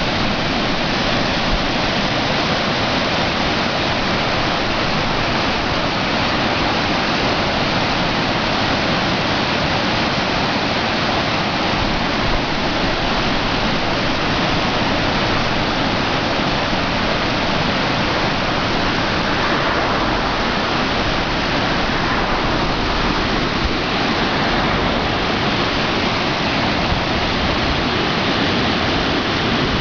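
Flood-swollen river water rushing steadily through and over a steel-framed fish weir (yana), a constant loud noise of pouring water.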